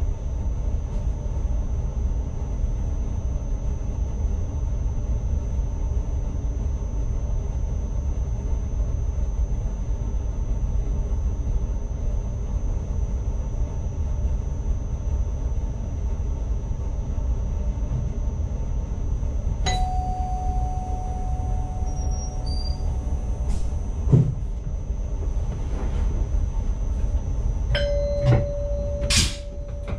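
ICMm electric train running, heard from the driver's cab as a steady rumble with a faint high whine. About two-thirds in, a cab alert tone sounds for about four seconds and ends with a thump. Near the end a second, lower alert tone starts among a few clicks.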